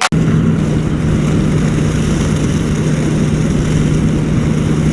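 Kawasaki Vulcan Drifter's liquid-cooled V-twin running at a steady pitch, with wind rushing over the microphone. The bike is being ridden on to bring down an overheating engine.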